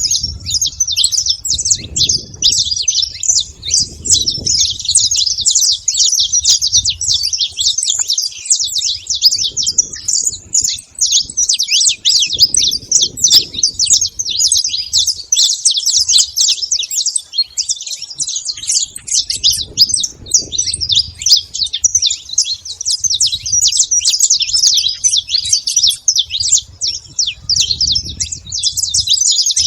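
Saffron finch singing: a fast, unbroken run of high chirps, with a low rumble coming and going underneath.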